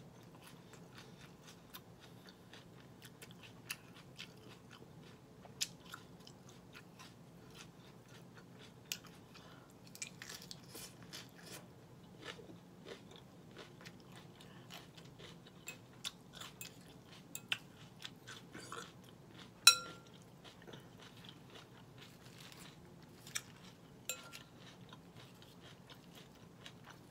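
Close-up chewing of a crisp romaine Caesar salad, with irregular crunches. A fork clinks on the glass bowl now and then, loudest about twenty seconds in.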